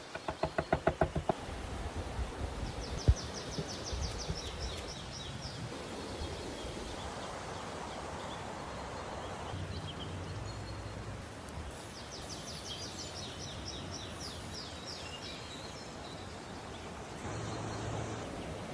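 Outdoor ambience with a steady background hiss, broken twice by a rapid high trill lasting a few seconds. A quick run of about ten pulses sounds right at the start.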